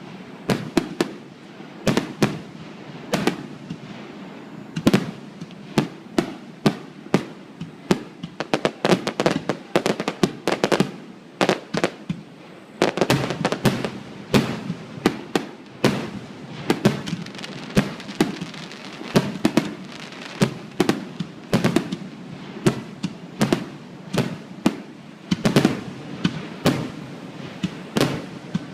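Fireworks bursting one after another, many sharp bangs at irregular spacing, often several a second, with no let-up.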